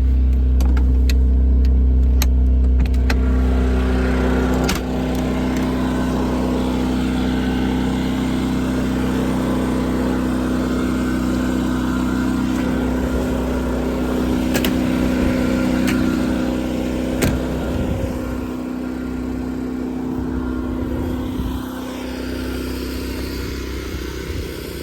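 Generator engine running at a steady pitch, with a few sharp clicks and knocks over it.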